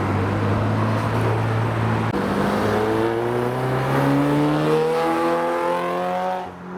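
Nissan Skyline R32 engine accelerating past: a steady engine note for about two seconds, then the pitch climbs steadily as it revs up, fading just before the end.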